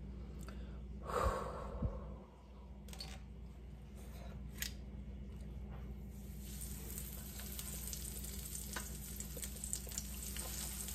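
Breaded chicken frying in hot peanut oil in a cast-iron skillet: the sizzle starts about six seconds in as the pieces are laid in, and grows. A single knock about a second in is the loudest sound.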